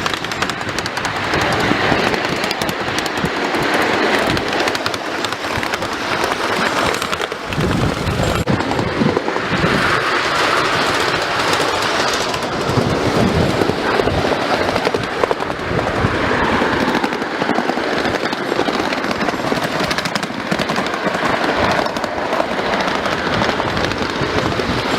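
Rattling and clattering of a moving train carriage, with wheels running over the track, dense and continuous.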